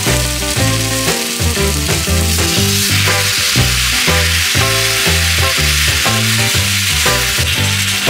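Chicken pieces sizzling as they fry in a pan with onions, a steady crackling hiss, with background music carrying a rhythmic bass line underneath.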